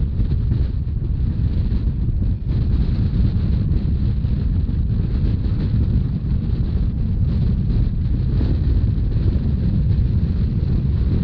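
Wind buffeting the microphone over the steady low rumble of a Rhaetian Railway narrow-gauge train running along the line.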